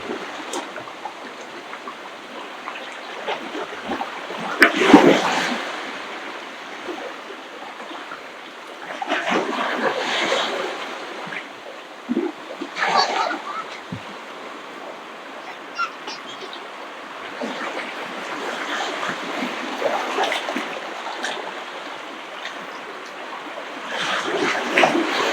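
Ocean waves breaking and washing on the shore: a steady surf noise that swells into a splashing surge every few seconds, the loudest about five seconds in.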